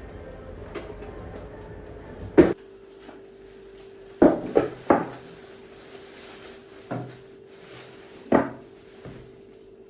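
Household handling sounds: a loud knock about two seconds in, a quick run of three knocks around four to five seconds, then a few more spaced knocks, like cupboard doors shutting and dishes being set down. A faint steady hum runs underneath.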